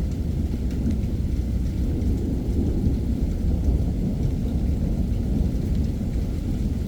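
Heavy summer thunderstorm: steady rain with a low, continuous rumble of thunder underneath, and no sharp crack.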